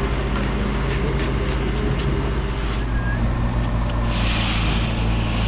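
An engine running steadily at a constant speed, with a burst of hiss lasting about a second near the end.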